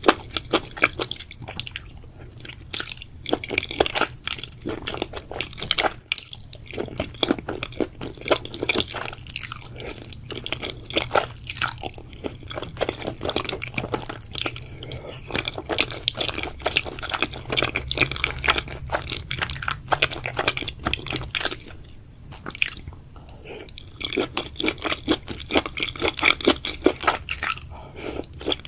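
A person chewing food with many quick, irregular wet clicks and crunches.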